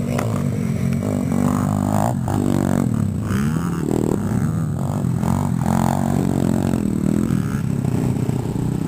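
Small single-cylinder four-stroke dirt bike engine running steadily at low revs, a continuous low drone.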